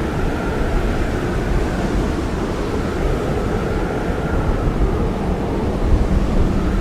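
Blizzard wind blowing hard and steadily, a deep rushing noise with a faint whistle that rises and fades.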